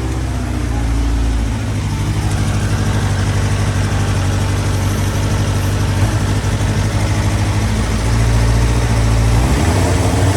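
Motorcycle engine idling, its speed shifting a few times as WD-40 sprayed around the intake boots is drawn in: the sign of a vacuum leak at one of the boots.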